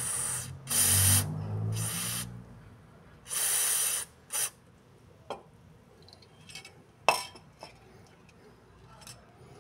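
Aerosol can of liquid vaseline lubricant sprayed through its thin tube onto suspension bushings, about five short hisses in the first four and a half seconds. A few light clicks follow.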